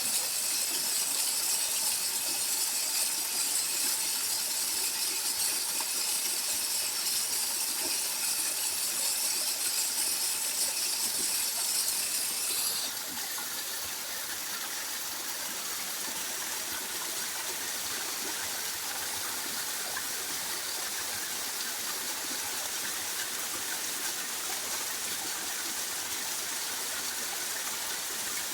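Steady rushing, hissing noise, like flowing water, with a bright high hiss that drops away abruptly about thirteen seconds in, leaving a softer, even rush.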